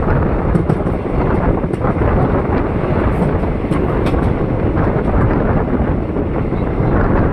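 Wind rushing over the microphone together with the steady rumble of a moving passenger train's wheels on the track, heard from an open coach doorway, with a few faint clicks from the rails.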